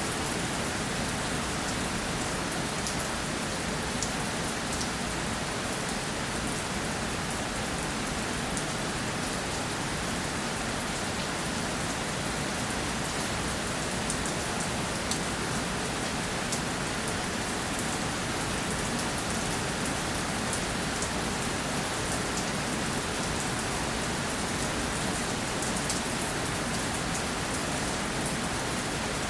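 Steady rainfall, an even hiss of rain with scattered sharper drop ticks on a surface.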